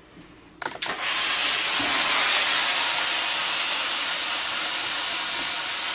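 Steam cleaner releasing dry steam through its wide attachment: a couple of short clicks, then a steady hiss that starts about a second in.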